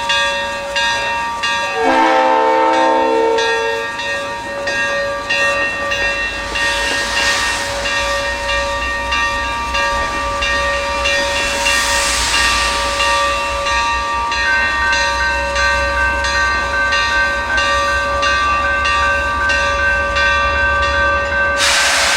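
Steam locomotive standing and hissing, with steady high whining tones over the hiss. A short whistle blast sounds about two seconds in, a low rumble builds from the middle, and a loud rush of escaping steam comes near the end.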